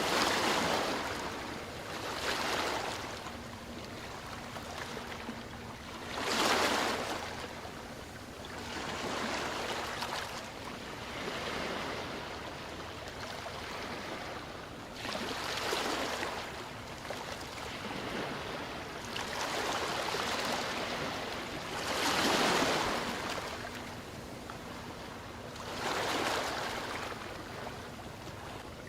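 Ocean waves washing onto shore. The surf noise swells and falls back every few seconds, and the biggest surges come at the very start, about six seconds in and about twenty-two seconds in.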